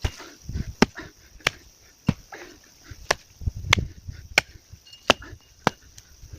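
Chopping out roots in the ground with a bladed hand tool: a series of sharp strikes, about nine in all, roughly every two-thirds of a second, with duller thuds between them.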